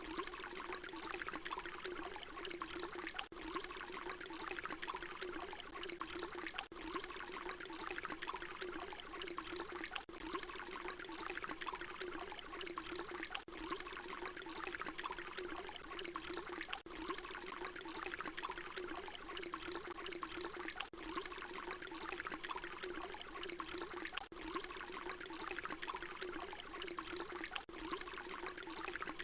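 Water pouring in a steady stream. It is a short recording looped, with a brief dip in level about every three and a half seconds where the loop repeats.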